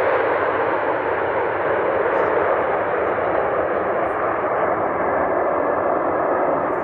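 Jet aircraft engine noise: a loud, steady rush that barely changes, easing slightly near the end.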